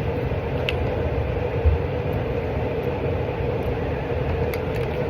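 Steady machine-like rumble and hum, with a faint click and a soft low knock, likely small handling sounds, about a second in.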